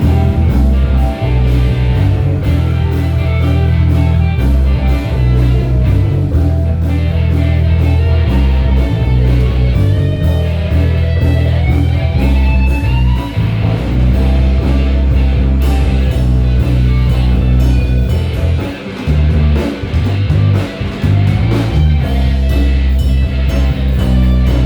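Live band playing an instrumental passage: guitar over a heavy bass line and a steady drum-kit beat, with a rising bent or slid note about halfway through.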